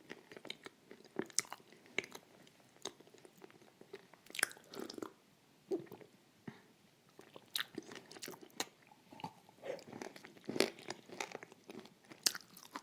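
A person chewing crunchy food close to the microphone: irregular crisp crunches and clicks, a few at a time, with quieter wet chewing between them.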